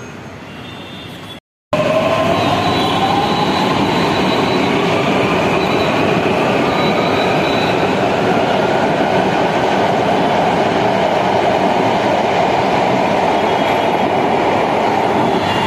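Mumbai Metro train pulling away: the electric traction motors' whine rises in pitch over a few seconds, then the train runs on with a steady loud rumble and hiss. The sound cuts out briefly about a second and a half in.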